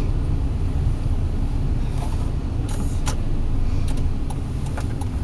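Car running at low speed, heard from inside the cabin as a steady low engine and road rumble, with a few light clicks about two to three seconds in.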